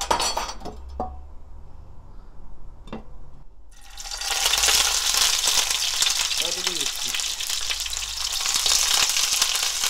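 Frozen battered pollock fillets (dongtae-jeon) going into hot oil in a nonstick frying pan: a few light clicks of metal tongs, then a loud, steady sizzle that starts about four seconds in as the first piece goes in and keeps up as a second piece is added.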